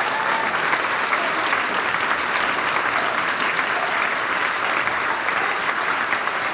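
Crowd applauding at the end of a speech, a steady, dense clapping that goes on without letting up.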